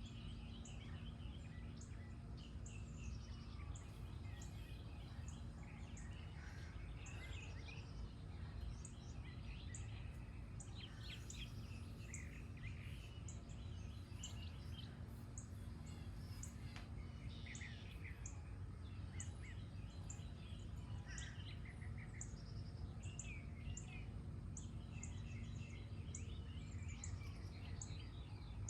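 Several songbirds singing and chirping at once, with a short high note repeated about once a second, over a steady low background rumble.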